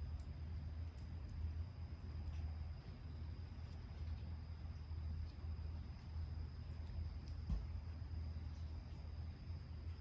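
Insects calling: a high, evenly pulsing chirp over a steady high trill, with a low steady rumble beneath and a few faint clicks.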